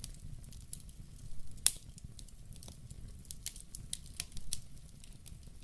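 Bonfire crackling: irregular sharp pops and snaps over a low steady rumble, with one louder pop a little under two seconds in.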